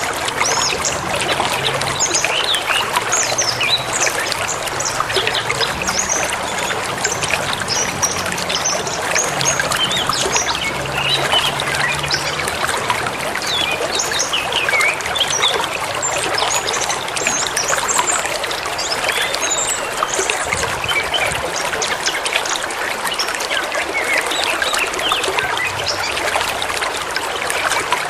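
A forest river running steadily, with many small birds chirping and calling over it.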